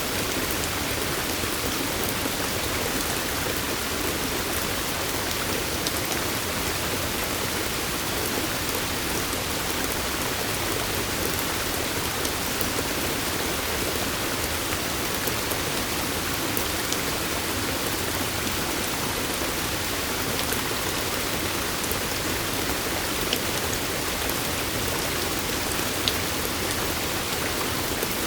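Steady hiss of falling water, with a few faint single drop ticks scattered through it.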